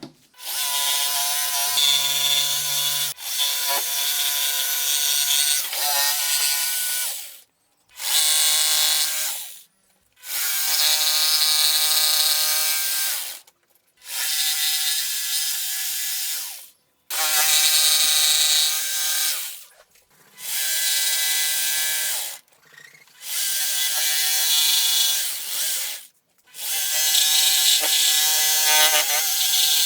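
A woodworking power tool run in about nine bursts of two to four seconds, with short silent gaps between them. Each burst is a steady motor whine under a rasping hiss.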